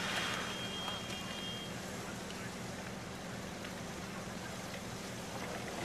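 Car engines idling steadily in a low hum. A thin high tone sounds over them for the first second or two.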